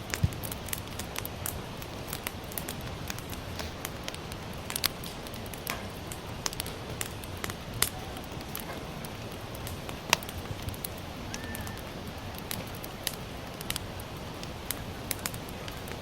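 Sawtooth oak (kunugi) firewood burning in an open fire, crackling with irregular sharp pops over a steady low hiss.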